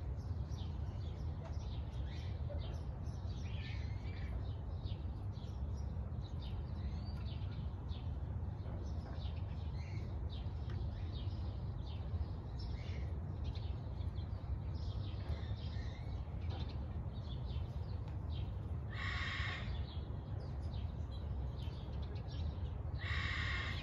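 Birds chirping outdoors over a steady low rumble, with two louder, noisier calls about a second long, one about nineteen seconds in and one near the end.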